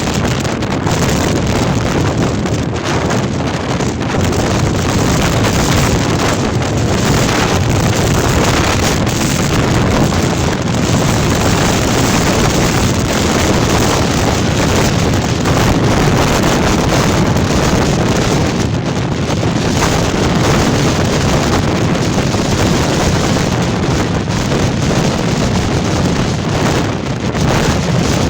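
Storm-force wind blowing hard in gusts, with heavy wind noise on the microphone.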